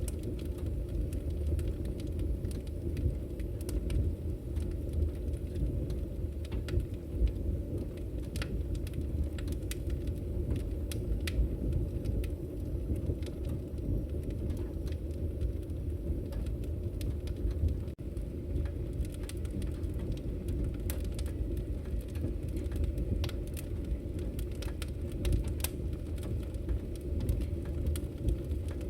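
Firewood burning in a Victory Camp Taiga camping wood stove: a steady low rumble of the fire, with irregular sharp crackles and pops from the burning logs.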